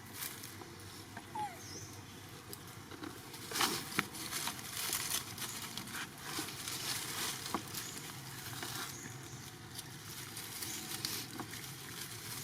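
Rustling and light pattering with scattered sharp clicks and taps, the loudest about four seconds in, and a brief faint squeak near the start.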